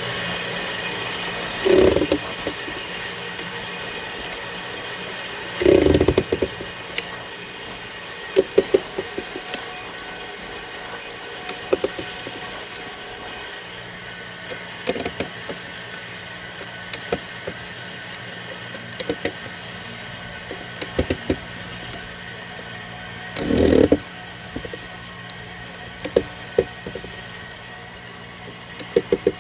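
Scattered short clicks and light knocks from tools and plastic and metal parts being handled while a soundbar is taken apart, with three heavier knocks about 2, 6 and 24 seconds in. A steady hum runs underneath.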